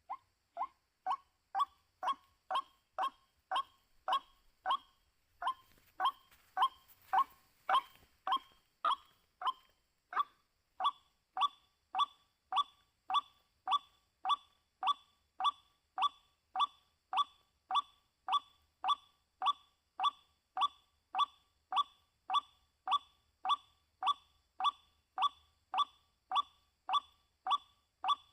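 White-breasted waterhen's monotonous call: short, identical croaking notes repeated evenly, about two a second, each dropping slightly in pitch.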